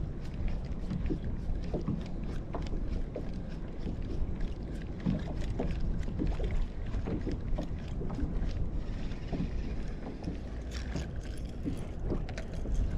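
Water splashing and lapping around a kayak, with many small irregular splashes and knocks over a steady rumble of wind on the microphone.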